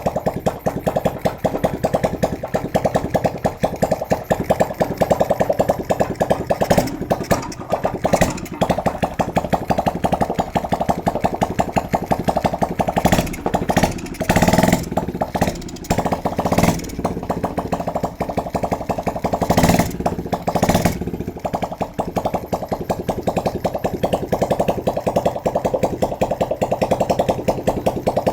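Bare motorcycle engine, out of its frame and run without a wiring harness straight off a battery and CDI, running steadily with a fast even firing pulse, with a few brief louder surges near the middle.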